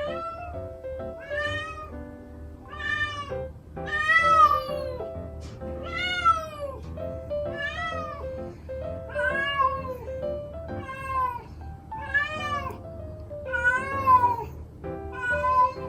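A cat meowing repeatedly at night, about a dozen long meows roughly a second apart, each rising and then falling in pitch. Background music plays underneath.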